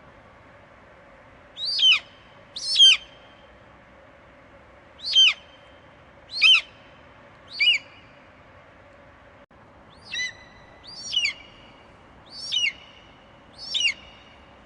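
Eagle screeching: nine short, shrill calls, each falling sharply in pitch, given at irregular intervals of about one to two and a half seconds.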